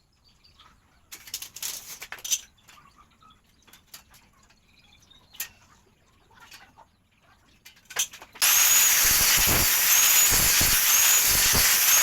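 Scattered light clicks and knocks, then a loud steady hiss that starts abruptly about eight seconds in.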